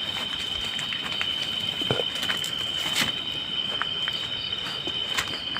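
Night insects, crickets or similar, calling in a steady, unbroken high-pitched drone, with scattered light clicks and crackles.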